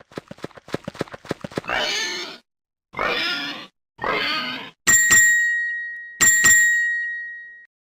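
Duck quacking: a quick run of short quacks, then three long, raspy quacks. Two chime-like dings follow, each struck twice and ringing out.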